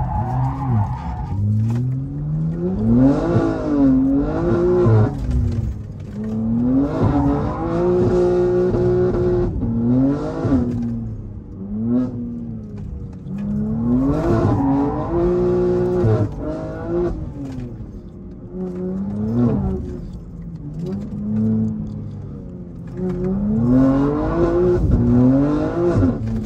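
BMW G80 M3's twin-turbo inline-six heard from inside the cabin, revving up and dropping back over and over as the car is slid through corners, with tyre squeal at times.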